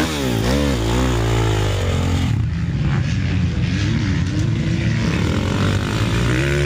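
Motocross bike engine revved up and down in quick throttle blips, then settling after about a second into steady running at a low, even speed.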